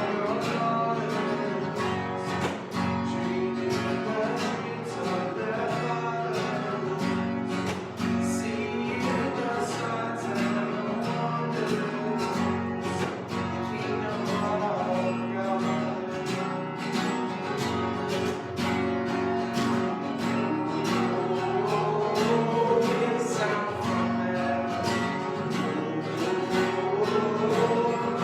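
Live worship song: an acoustic guitar strummed in a steady rhythm, with voices singing the melody.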